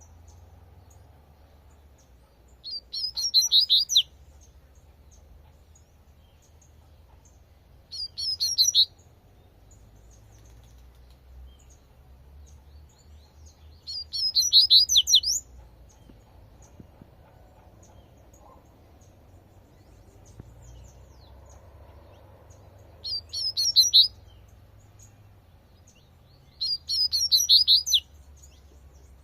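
Double-collared seedeater (coleirinho) singing its 'tui-tui' song: five short, rapid phrases of high chirps, each about a second long, several seconds apart.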